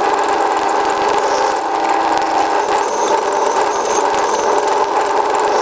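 A machine tool running steadily while it takes a skimming cut across a steel plate, bringing the plate down toward 8 mm thickness. It gives a constant, even hum made of several tones, with faint light ticking from the cut.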